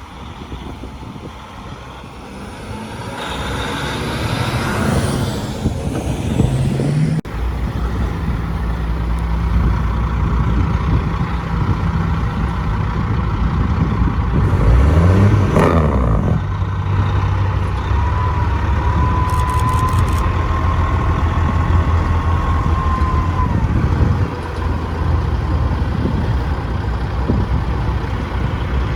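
Heavy truck diesel engines running. In the first few seconds one revs up in rising pitch, and near the middle there is a sharp swell as a truck passes close.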